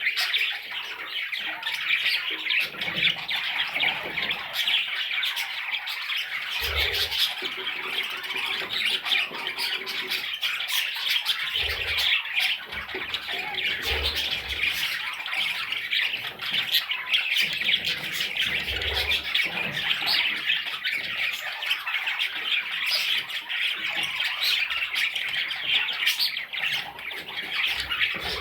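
Budgerigar chicks calling without pause, a dense chatter of squawks. A few short low thumps sound now and then.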